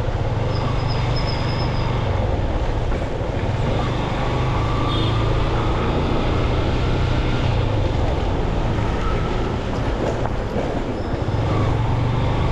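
Steady road noise from a moving motorbike: wind rush on the microphone over the low rumble of the engine and the surrounding traffic.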